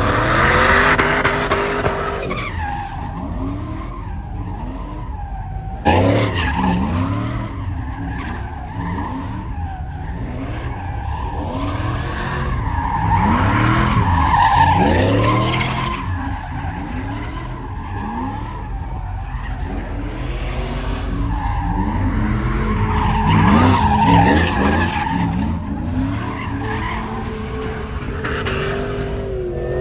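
Truck engines revving up and down again and again, with tyres skidding and squealing; a sudden louder burst comes about six seconds in.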